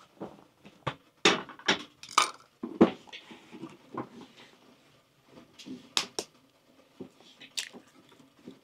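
A series of irregular knocks, clicks and clatters, loudest in the first three seconds, with soft rustling between them.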